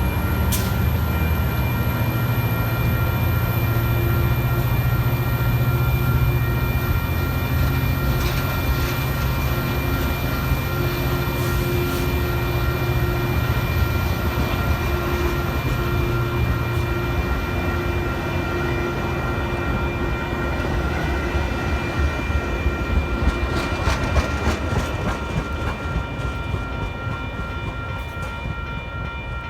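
A train rumbling past on the tracks, with a run of sharp clicks from the wheels about three-quarters of the way through; the sound slowly fades near the end.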